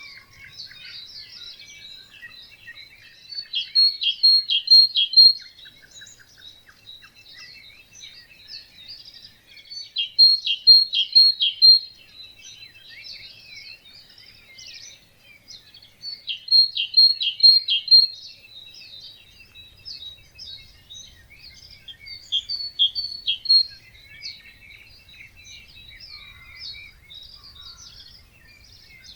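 Wetland birds singing in a dawn chorus. One bird repeats a loud short phrase of four or five quick notes about every six seconds, four times, over steady chirping from other birds.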